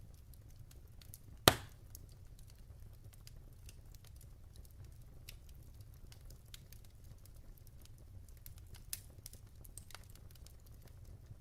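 Wood fire burning in a fireplace, crackling with many small irregular ticks over a low steady rumble. One loud sharp pop about a second and a half in, and a smaller pop near the end.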